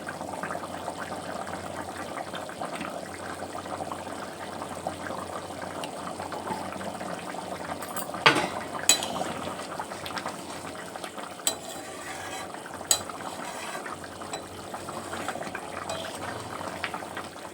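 Chicken curry simmering and bubbling in its reducing gravy in a pan, with a few sharp clicks of a utensil against the pan about halfway through.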